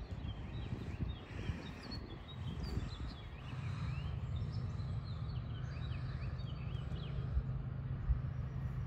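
Small birds chirping and singing, many short notes sliding up and down, over a low rumble on the microphone; a steady low hum comes in about three and a half seconds in.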